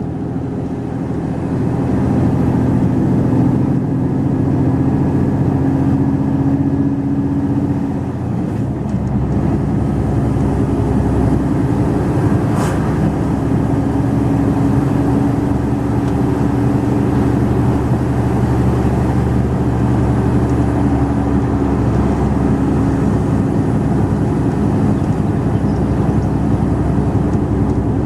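Mercedes-Benz Actros truck's diesel engine running steadily under load on a climb. Its sound dips briefly about eight seconds in and comes back with a deeper low note.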